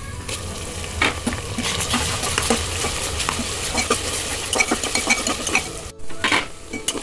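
Sliced onions and ginger-garlic paste sizzling in hot oil in an aluminium pressure cooker, while a spatula stirs them with repeated scraping clicks against the pot. The sound breaks off briefly about six seconds in.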